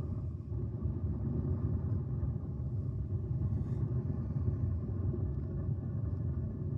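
Jet airliner engines heard from a distance: a steady low rumble with a faint steady whine above it.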